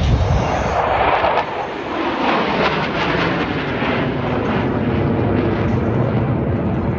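Jet roar from the Thunderbirds' F-16 fighter jets flying overhead: a loud, steady rush of engine noise with no clear tone.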